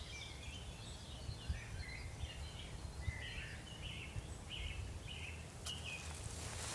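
Songbird calling outdoors: a string of short chirps, about two a second in the second half, over a steady low rumble.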